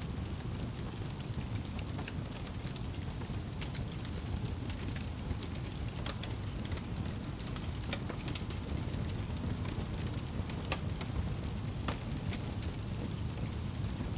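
Wood fire burning steadily in a fireplace, with a low rushing sound and frequent sharp crackles and pops scattered throughout.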